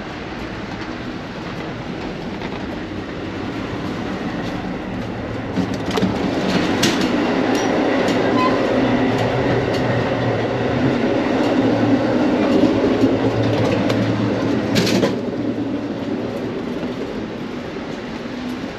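A passenger train running on the rails, heard from inside the coach car: a steady rumble and rush of wheel and track noise that swells towards the middle and eases off near the end. Sharp clacks come about six to seven seconds in, and a louder one about three-quarters of the way through.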